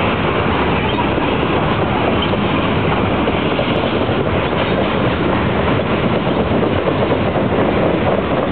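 Norfolk Southern Top Gon coal gondola cars rolling past close by: a loud, steady rolling noise of steel wheels running on the rails.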